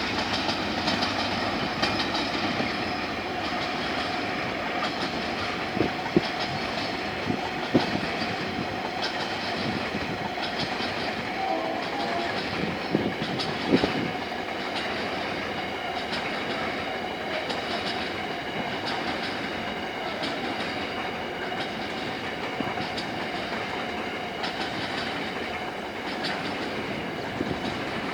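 Coal train rolling past over junction trackwork. Its wheels clack over rail joints at irregular intervals, with a few louder knocks in the first half, over a continuous rumble with thin steady ringing tones above it.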